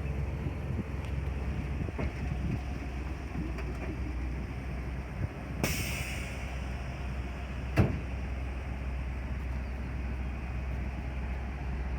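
1992 Ford dump truck engine idling with a steady low hum, with a short hiss about halfway through and a sharp knock near the end.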